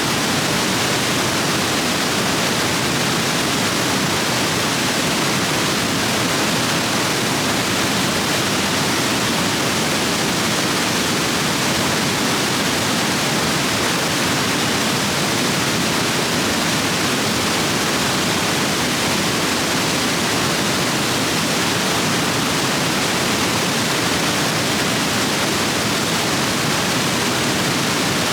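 Stream rapids swollen by heavy rain, rushing water in a steady, dense wash of noise with no let-up.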